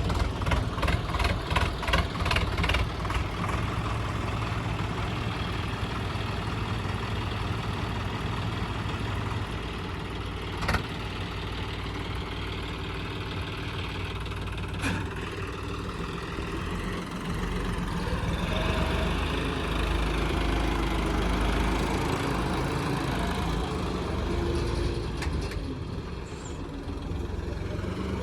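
Tractor loader's diesel engine running, with a rhythmic clatter in the first few seconds, two sharp clacks partway through, and the engine working harder for a stretch later on.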